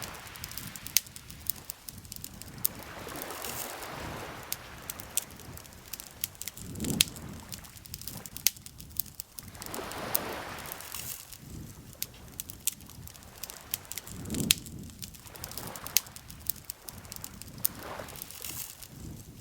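Wood campfire crackling, with frequent sharp pops and snaps. Under it, soft rushing swells come and go about every three to four seconds, like lake water lapping at the shore.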